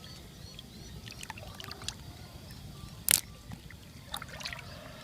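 Small splashes and drips of water with scattered clicks, and one sharp knock about three seconds in, over a steady low rumble.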